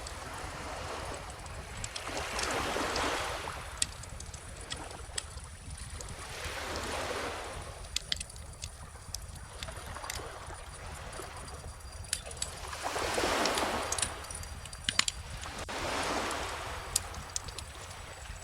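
Bonfire crackling with scattered sharp pops over calm ocean waves, which wash in and out about four times.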